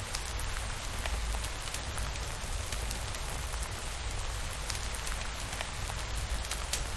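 Steady rain falling, with many scattered sharp drop ticks over an even hiss and a constant low rumble underneath.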